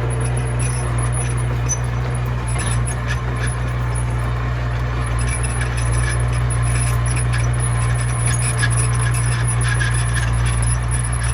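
Komatsu mini bulldozer's diesel engine running at a steady speed, with scattered light metallic clicks and rattles.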